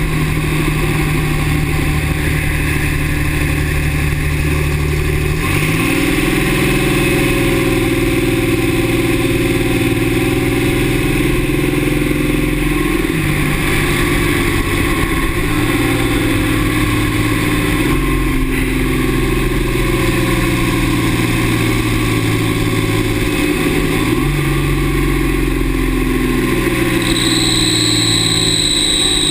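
2009 Dodge 6.7 Cummins turbo diesel running, its engine note jumping up about 5 s in and shifting in steps several more times. Near the end a thin high-pitched squeal sets in over the engine: the noise the owner hears only with the exhaust brake engaged and suspects comes from the turbo.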